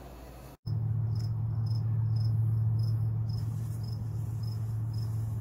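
Crickets chirping about twice a second over a steady low hum, which starts suddenly about half a second in after a moment of silence.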